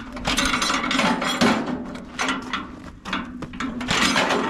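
Farmall A tractor's four-cylinder engine being hand-cranked on half choke: clattering turns of the crank in uneven bursts, the engine turning over without catching.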